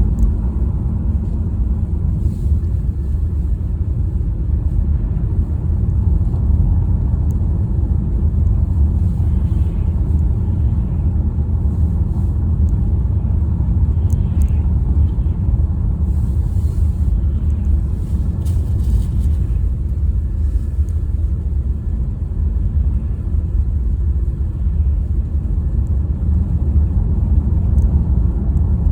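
Steady low rumble of a car driving, engine and road noise without letup.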